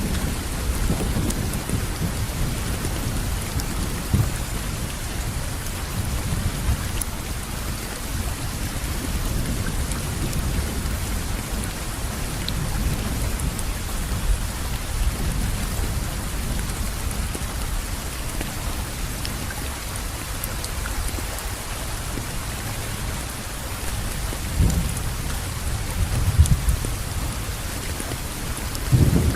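Steady rainfall with a deep low rumble underneath, which swells in a few brief surges near the end.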